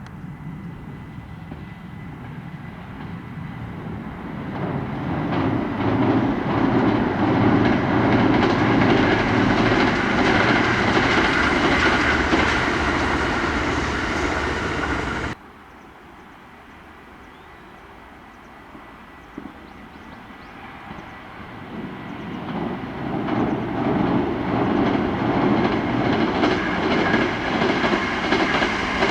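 Kintetsu electric trains passing, wheels clicking over the rail joints. The first train builds up to a loud pass and then cuts off suddenly about halfway through; a second train comes up and is loud near the end.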